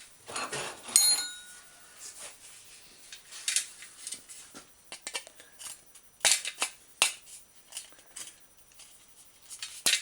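Scattered sharp clicks and knocks of metal parts being worked, as drilled-out rivets are freed from a steel bicycle fender. About a second in, a short metallic ring.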